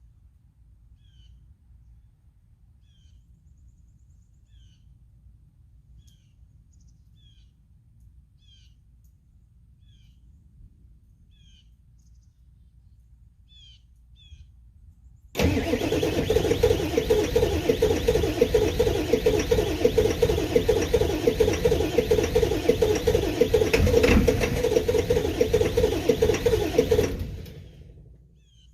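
Straight-piped 7.3-litre V8 turbo diesel being cranked on a cold start with bad glow plugs at 10 °F. The loud starter-and-engine sound cuts in suddenly about halfway through, runs steadily for about twelve seconds, then dies away without the engine staying running. Before it, a bird gives short high chirps about once a second.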